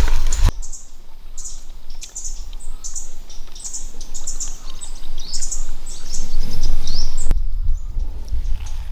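A bird chirping over and over in short high notes, about two a second, some sliding downward, over a low rumble. The chirping starts suddenly about half a second in and stops suddenly near the end.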